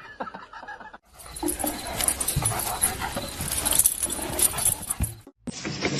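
A dog vocalizing over a steady rush of noise. The sound changes abruptly about a second in and again near the end.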